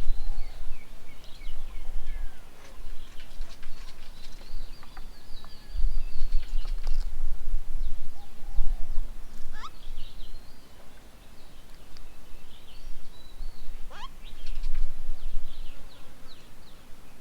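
Small birds chirping and calling at a garden bird table: many short chirps and quick sweeping notes. Under them runs a low rumble that swells and fades several times and is the loudest sound.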